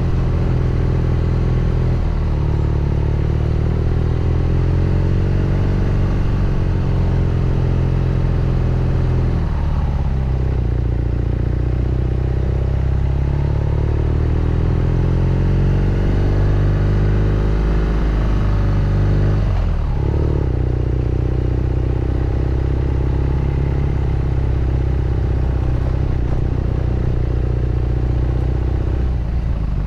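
BMW R nineT Scrambler's boxer twin engine and exhaust under way, the engine note rising and falling in pitch with the throttle, with sharp breaks in the note about ten, twenty and near thirty seconds in.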